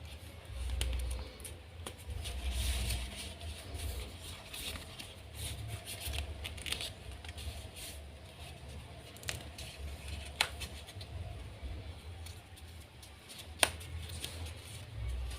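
A sheet of origami paper being handled and folded: on-and-off rustling and scraping of paper, with a few sharp crisp snaps, the loudest near the end, over low bumps of handling.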